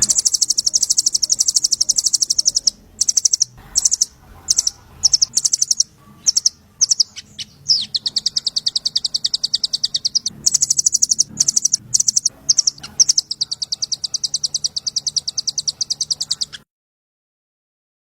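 A small songbird singing long runs of a fast, high trill of rapid chirps, broken by short pauses and a few separate call notes. The recording cuts off suddenly near the end.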